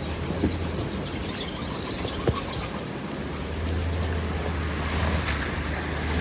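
Steady rain falling, with a couple of sharp knocks and a low hum that swells in about halfway through.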